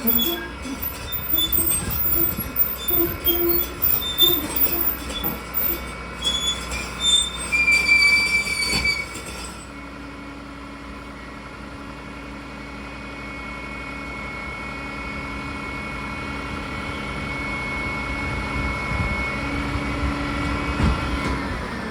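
Roll-off truck handling a steel dumpster: metal squealing and scraping for about the first nine seconds, then a steady mechanical whine that slowly grows louder.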